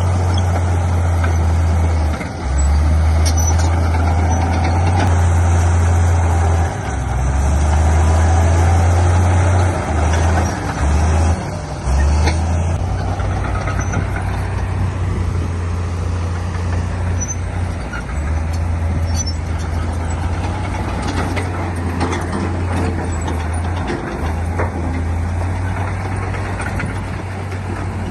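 Heavy diesel earthmoving machinery running under load: a loud low engine drone that dips briefly a few times in the first dozen seconds, then settles a little quieter, with scattered light clanks.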